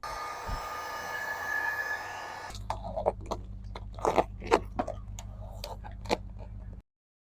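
A steady hiss for the first couple of seconds, then vinyl car wrap being peeled off a body panel, crackling and snapping in sharp irregular bursts over a low steady hum. The sound cuts off abruptly near the end.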